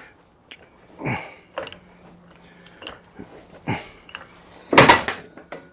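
Metal clinks and clanks of hand tools and hinge parts being handled, mixed with short breaths and grunts; the loudest clank comes near the end.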